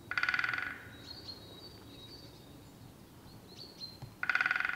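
Birds calling outdoors: two short, harsh, buzzy calls about four seconds apart, one right at the start and one near the end, with faint high chirps between them over a quiet background hiss.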